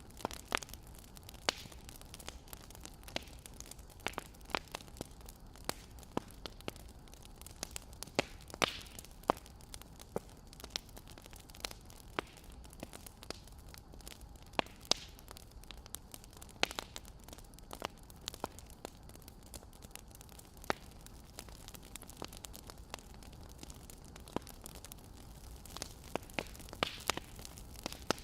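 Wood fire crackling: irregular sharp pops and snaps, a few louder than the rest, over a steady low hiss.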